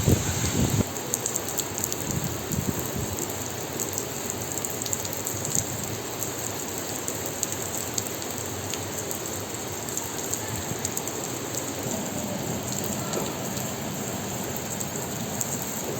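Steady rain falling, with scattered drops ticking on nearby surfaces. A louder low rumble stops about a second in.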